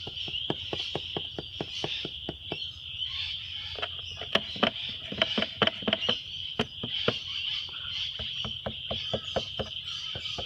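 Holden SS's LS3 V8 engine idling with a low steady hum and irregular sharp knocks, a few a second: the piston slap the owner is demonstrating. A steady high-pitched chirring runs underneath.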